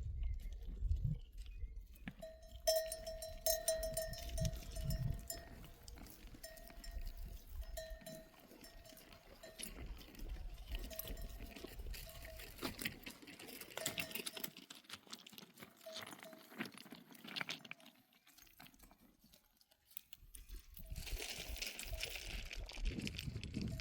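Livestock bells on a grazing sheep flock ringing on and off as the animals move, with scattered small knocks of hooves and steps.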